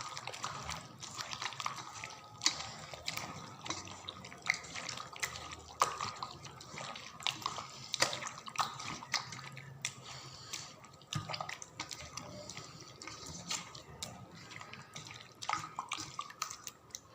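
Hands mixing raw broiler chicken pieces with yogurt and ground spice paste in a bowl to marinate them, making irregular wet clicks and slaps.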